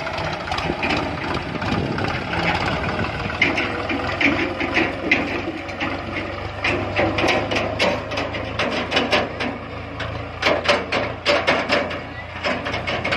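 A diesel engine running steadily, with rapid, irregular clatter and knocks over it that are densest in the second half.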